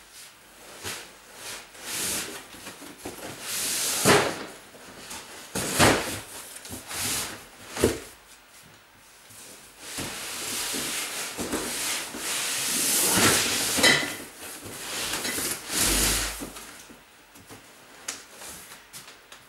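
Cardboard moving boxes and plastic storage crates being shifted and stacked by hand: irregular scraping, rustling and knocks.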